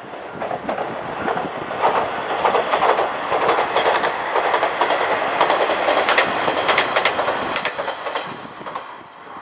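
Kanto Railway KiHa 0 series diesel railcar running past, its wheels clattering over the rail joints in clusters of sharp clicks. The sound swells in over the first couple of seconds and fades away near the end as the train moves off.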